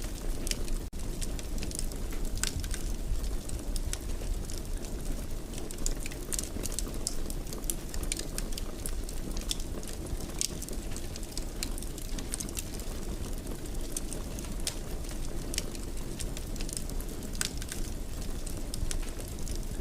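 Wood fire crackling in a fireplace: irregular sharp pops and snaps over a steady low rumble, with a momentary drop-out about a second in.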